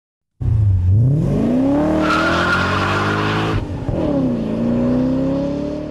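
The 400-horsepower V8 of a Hartge H50 (a BMW E46 M3 with an M5 engine) revving hard from low, with tyres squealing for about a second and a half. The revs then drop suddenly and climb again.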